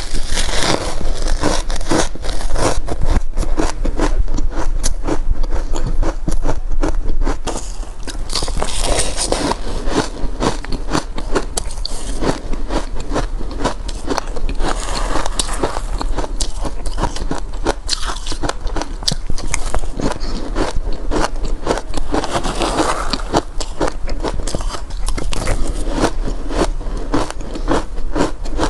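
Close-miked biting and chewing of shaved ice coated in powder, a dense run of rapid crunches and squeaky crackles that comes in clusters.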